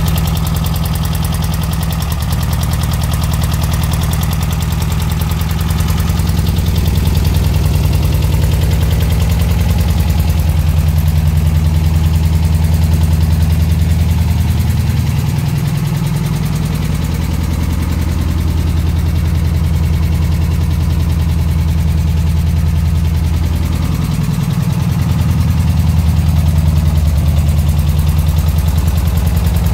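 Air-cooled VW flat-four engine of a Baja bug, fitted with twin Empi carburettors and twin 'cannon' exhaust pipes, idling steadily, its note shifting briefly twice.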